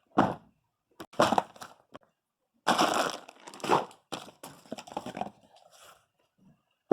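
Chess pieces clattering and knocking against the board and each other, a string of uneven clacks with a longer rattle a little under 3 seconds in.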